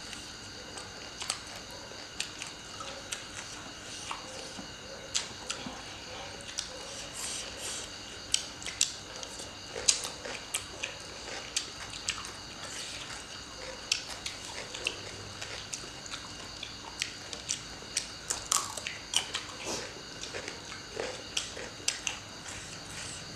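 Two people chewing green papaya salad and raw vegetables such as celery. Frequent crisp crunches and wet mouth clicks come at an irregular rate.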